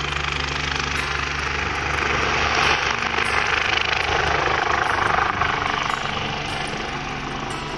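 Helicopter flying, its rotor and engine drone swelling about two seconds in and then gradually fading.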